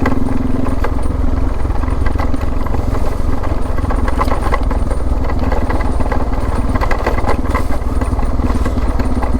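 Suzuki DR650's single-cylinder four-stroke engine running steadily while riding, with scattered clicks and rattles throughout.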